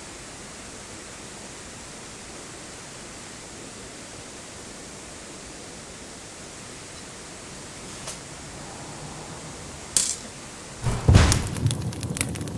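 Steady rush of a mountain creek. Near the end come a sharp knock, then heavy knocks and a run of clattering.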